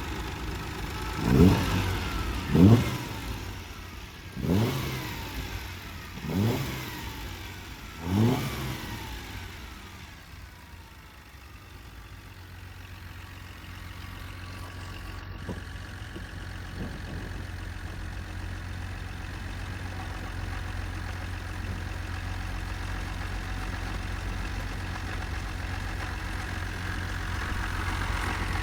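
Fiat Dino 2400 Coupe's 2.4-litre V6, warm, revved in five quick throttle blips over the first nine seconds, each rising sharply and falling back, then settling to a steady idle.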